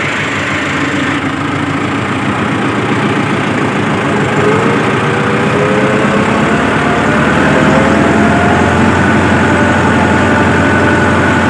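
Massey Ferguson 385 tractor's four-cylinder diesel engine running in two-wheel drive. The engine pitch rises and it grows louder from a few seconds in, then holds steady.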